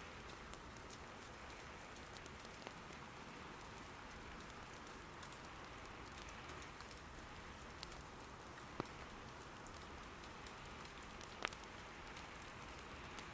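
Soft, steady rain patter with a wood fire in an irori hearth crackling faintly now and then; two sharper pops stand out in the second half, the later one louder.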